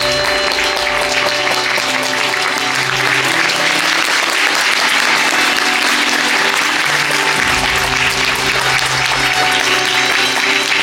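Theatre audience applauding steadily over background music with sustained notes.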